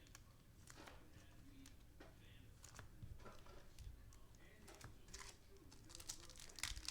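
Faint handling of trading cards and a foil card pack: scattered small clicks and rustles, with crinkling of the wrapper growing louder near the end.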